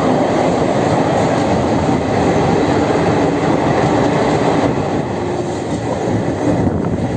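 Passenger train running into a tunnel, a loud, steady rumble of wheels on rail heard from inside the coach.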